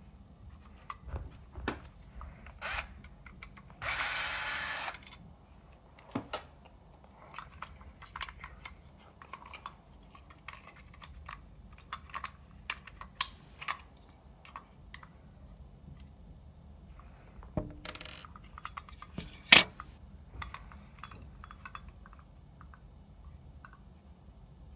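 Small clicks, knocks and rattles of tools and parts being handled while working on a projector, with a dense burst of noise lasting about a second near the start and one sharp loud click near the end.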